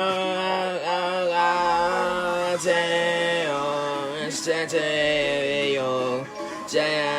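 A voice singing held, sliding notes in a chant-like song.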